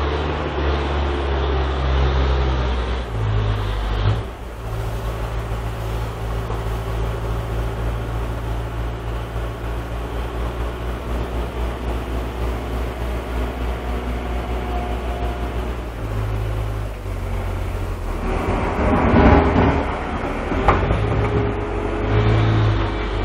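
Heavy diesel engines of working harvest machinery running, the engine note stepping up and down several times. A louder, rougher stretch comes about two-thirds of the way through.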